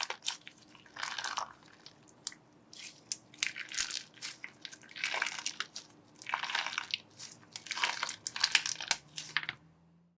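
Crunchy slime being pressed and squeezed, crackling and popping in repeated bursts about once a second.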